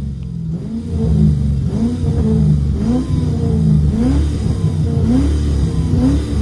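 V8 car engine revved in a string of short throttle blips, each one a quick rise in pitch, a little more than one a second.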